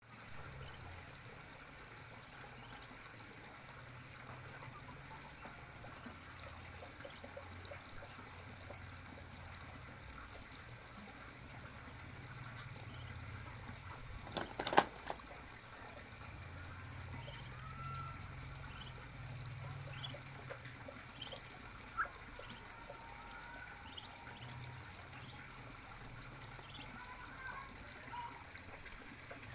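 Steady trickling water with faint, short bird chirps now and then. A sharp knock comes about 15 seconds in, and a smaller one about 22 seconds in.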